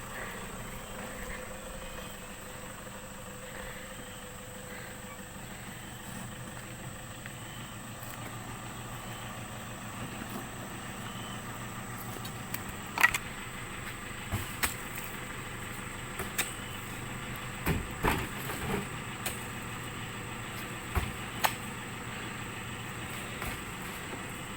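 A motor running steadily at idle, with scattered clicks and knocks in the second half.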